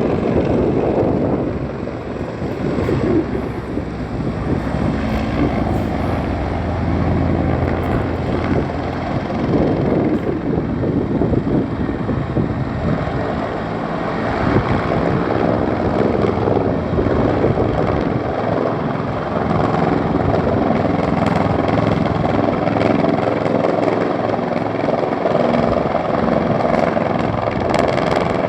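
Firefighting helicopter flying, its rotor and engine making a steady noise.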